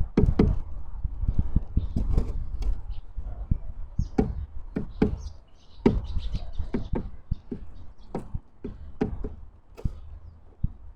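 Birds pecking and hopping on a wooden bird feeder: irregular sharp knocks and taps with dull thuds, coming thick and fast at first and thinning out near the end.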